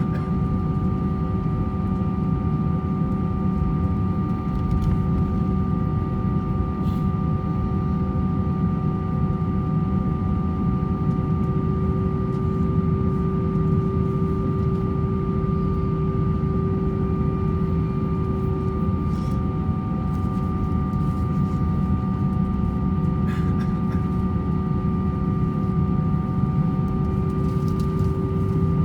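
Airbus A321-200 cabin noise: a steady engine hum and low rumble with several constant whining tones, unchanging throughout.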